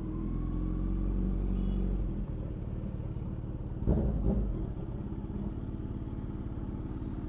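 Motorcycle engine running steadily at low revs, with a short rev that rises and falls about four seconds in.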